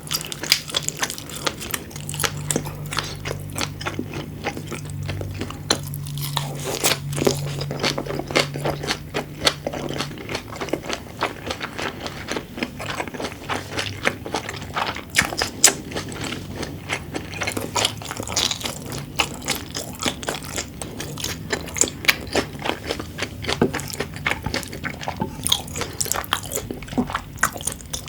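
Close-miked eating sounds: chewing with many quick, sharp pops and clicks, with a faint low hum for the first several seconds.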